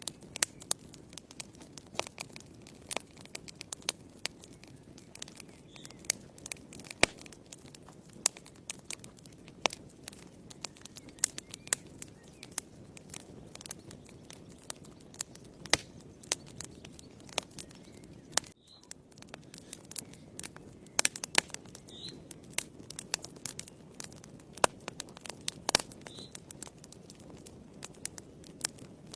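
Wood fire in a fireplace crackling: irregular sharp pops and snaps over a low, steady rush of burning, with a momentary drop-out about two-thirds of the way in.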